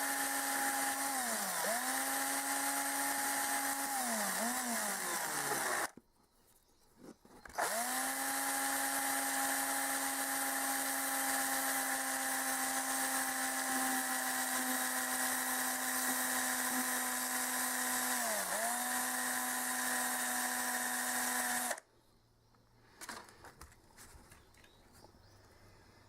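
Small electric power tool's motor running at a steady whine, briefly slowing several times as it is pressed against the work. It spins down and stops, is switched back on and runs steadily with one more brief slowdown, then stops near the end.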